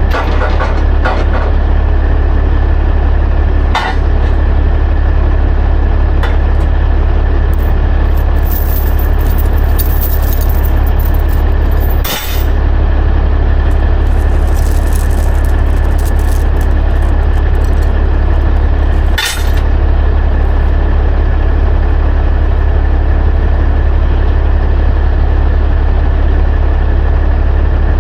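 A heavy diesel vehicle engine running steadily, with a deep constant drone and a faint high whine, broken by three short dips.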